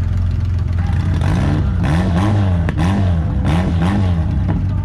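Demolition derby car engines running loudly: a steady idle drone, with an engine revving up and down about twice a second through the middle.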